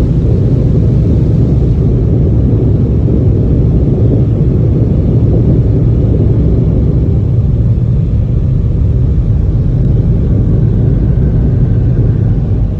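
Automatic car wash machinery running around the car, heard from inside it as a loud, steady low rumble.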